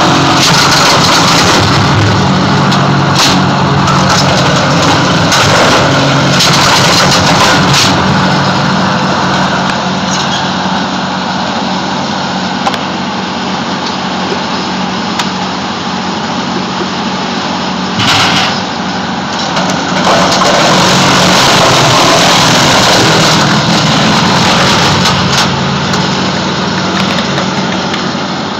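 Petrol-engined wood chipper running loud and steady, with short sharp cracks now and then; the level dips through the middle and comes back up about two-thirds of the way through.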